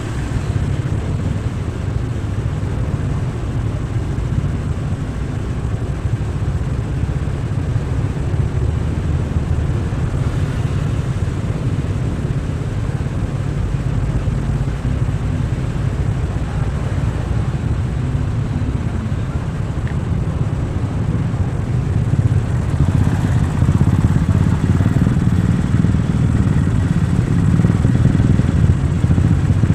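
Motorcycle engine running steadily while riding, with road noise; it gets louder about three-quarters of the way through.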